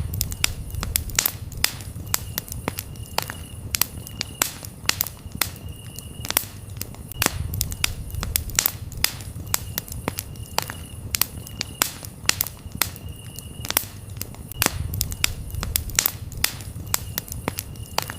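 Campfire crackling, with frequent irregular sharp pops and snaps over a low rumble of burning wood. Crickets chirp faintly in short spells in the background.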